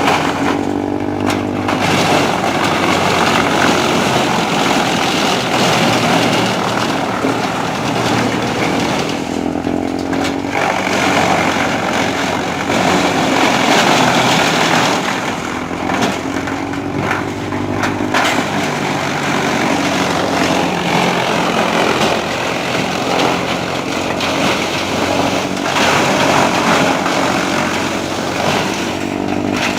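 Tractor-driven wood chipper running under load: the Trakstar 545 DI tractor's diesel engine drones steadily beneath a dense crackle and splintering of wood being fed through and chipped.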